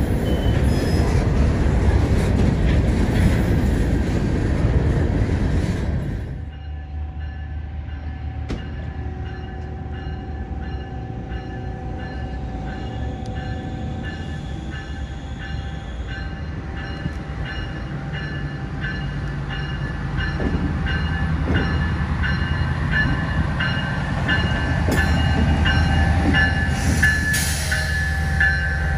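Train running close by, loud and even for about six seconds, then cut off abruptly. A quieter train sound follows: steady high tones with a high ringing that repeats about twice a second, and a low rumble of the train building up in the second half.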